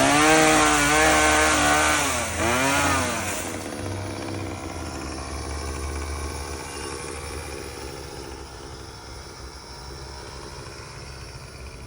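Chainsaw engine running at high revs for about three seconds, then falling away to a quieter, steady low rumble.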